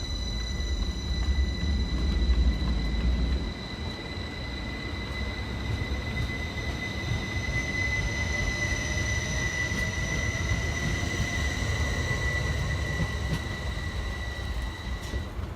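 Class 333 electric multiple unit pulling out, with a low rumble that is heaviest for the first few seconds. A steady high whine cuts off near the end, and a fainter whine rises in pitch as the train gathers speed.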